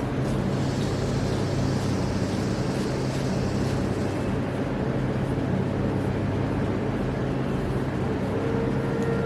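A steady low mechanical hum with an even background rush, unchanging throughout.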